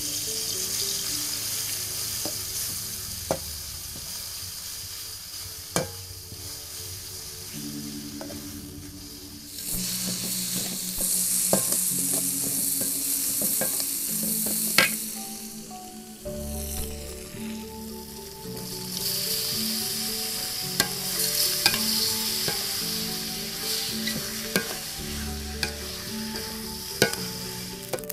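Spice paste and herbs sizzling as they are stir-fried in a metal wok, with a metal spatula scraping and clicking against the pan. The sizzle gets louder about ten seconds in. Soft background music plays underneath.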